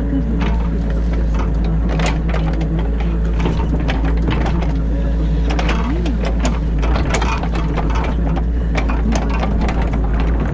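New Holland E50.2 excavator heard from inside its cab, the diesel engine and hydraulics running steadily while digging, with frequent knocks and clatter from the bucket and machine. The hydraulic note briefly rises and falls about six seconds in.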